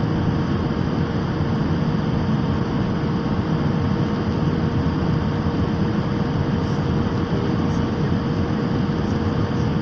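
Steady cabin noise inside a passenger airliner in flight: an even rush of airflow and engine noise, with a faint steady hum running through it.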